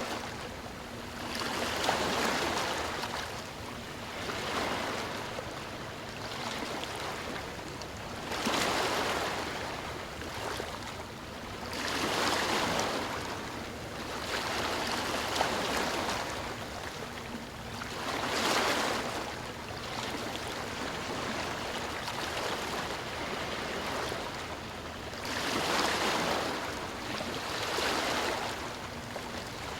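Sea waves breaking and washing in, a steady hiss of surf that swells into a louder surge every four to seven seconds.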